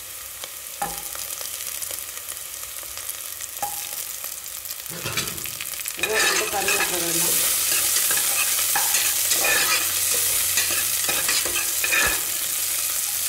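Chopped onions and green chillies frying in oil in an aluminium pressure cooker, with a spoon scraping and clicking against the metal as it stirs. About six seconds in, garlic cloves go into the pan and the sizzling gets clearly louder, with a sharp knock shortly before and another near the end.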